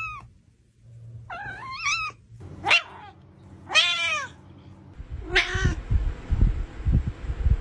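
A domestic cat meowing four times in drawn-out, wavering calls, one of them short. Irregular low bumping and rumble join in over the last couple of seconds.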